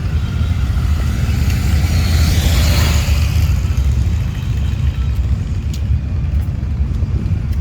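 Motorcycle engines rumbling steadily, with a rushing swell that builds and fades about two to three seconds in.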